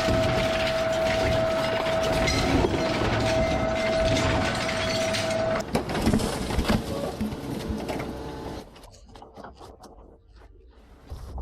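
Heavy machinery running with a steady whine over dense clatter and knocks. The sound changes abruptly about halfway through, carries on with sharp knocks, then drops much quieter near the end.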